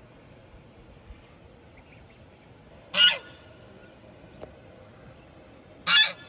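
An animal calling twice: two short, loud calls about three seconds apart.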